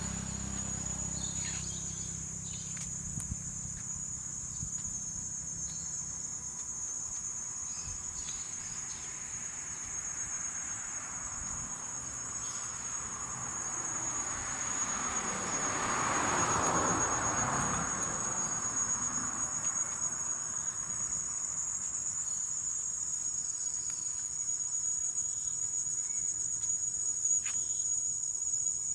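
Insects keep up a steady, high-pitched trill. A low hum dies away in the first few seconds, and a rushing noise swells and fades about halfway through.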